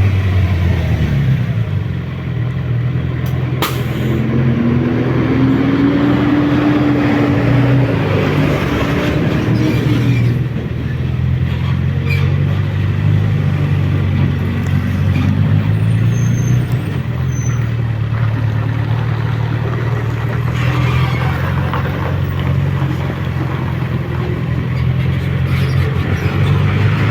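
Suzuki Bandit motorcycle engine running steadily while riding, with wind rush over the microphone; the engine note rises and dips a few seconds in.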